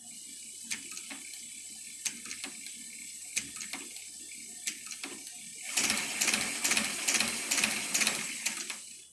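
Hand-cranked Chinese shoe patcher (manual leather sewing machine) running, its mechanism giving scattered sharp clicks over a steady hiss, then clicking faster and louder from about six seconds in before stopping near the end.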